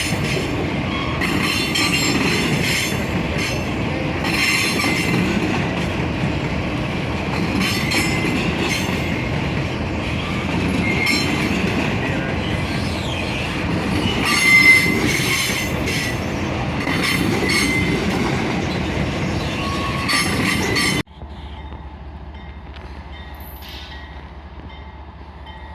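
Freight train wagons rolling past at close range: a steady rumble of wheels on rail, with intermittent high squeals from the wheels and irregular clacks over the rail joints. About 21 seconds in the train sound cuts off abruptly, and a much quieter steady sound follows.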